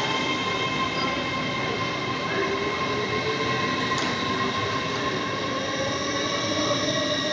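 Train moving through the station, a steady rumble with several high whining tones and a lower whine that slowly rises in pitch.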